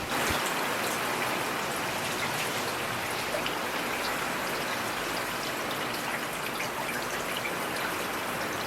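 Heavy rain falling steadily: a dense hiss with scattered sharper drop hits.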